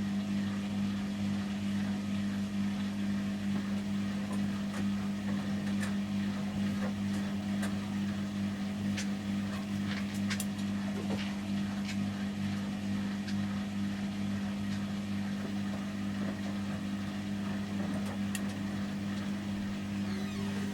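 Samsung Series 5+ washing machine in its final spin at 800 rpm: a steady hum with a constant low tone, and a few faint clicks.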